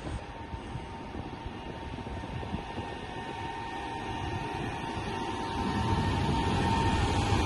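An electric train approaching through a station, a steady rumble with a steady whine that grows gradually louder as it comes closer.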